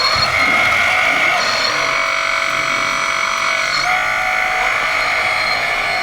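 Electric motors and hydraulic pumps of RC construction models whining together at several steady pitches. The pitches shift to new levels about a second and a half in and again about four seconds in, as the machines change speed or load.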